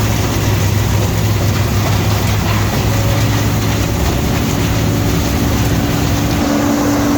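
Heavy machinery's engine running steadily and loud, with a steady whine coming in about three seconds in.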